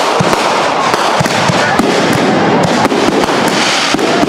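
Aerial fireworks bursting in quick succession: many sharp bangs and crackles close together.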